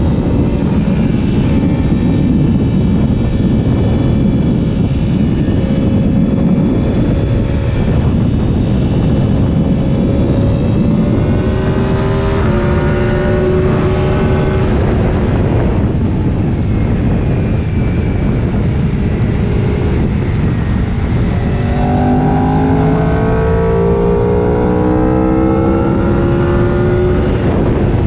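Sport motorcycle engine running at speed under heavy wind noise on the microphone. The engine pitch shifts about halfway through and climbs repeatedly near the end as the bike accelerates hard.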